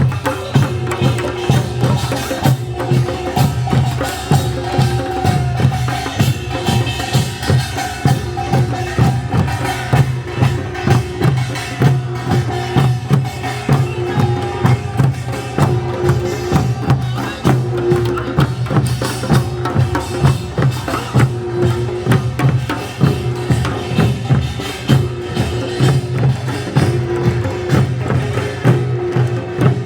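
Korean folk music with a steady, fast percussion beat of clacking strokes over a sustained low drone.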